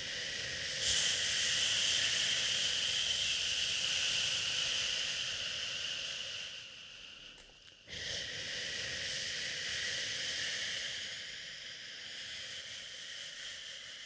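A person shushing a baby with long, steady "shhh" sounds: two of them, each about seven seconds long, with a brief pause for breath between them just before the middle.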